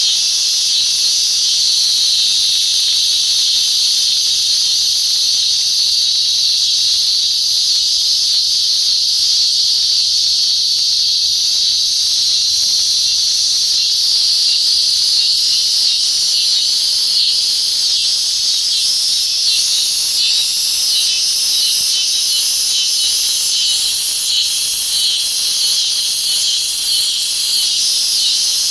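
Cicadas singing: a loud, continuous, high-pitched buzz that holds steady throughout. In the second half a faint, regular pulsing joins higher up.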